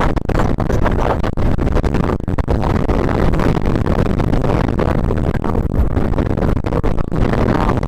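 Blizzard wind buffeting the camera microphone: a loud, rumbling roar with brief dropouts throughout.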